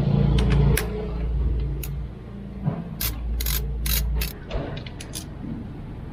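Socket ratchet clicking in short, irregular bursts while loosening a spark plug. A steady low hum underneath stops about four seconds in.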